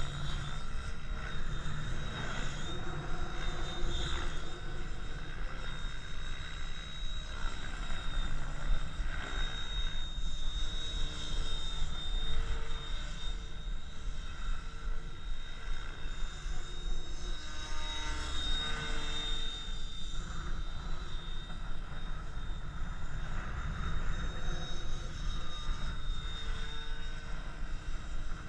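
KDS Innova 700E electric RC helicopter with a SAVOX motor in flight: a steady high motor whine with rotor and motor pitch shifting up and down as it manoeuvres. Wind rumbles on the microphone throughout.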